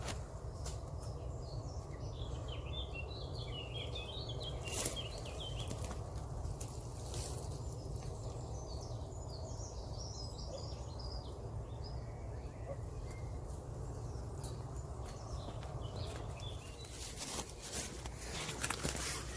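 Small birds chirping in two scattered bursts over a steady low rumble, with a few sharp clicks or knocks, one about five seconds in and several near the end.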